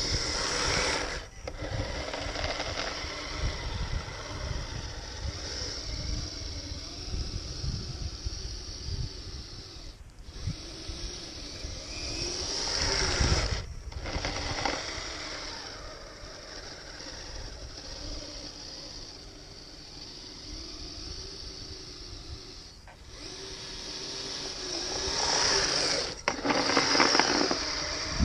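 Kyosho Blizzard RC snowcat's electric motor and gearbox whining as it drives on metal tracks, the pitch rising and falling as it speeds up and slows. The sound breaks off sharply several times.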